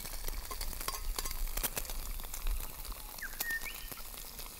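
Bacon and eggs frying in a cast iron pan over campfire coals, with a light, irregular crackle of spitting fat. A bird chirps briefly about three seconds in.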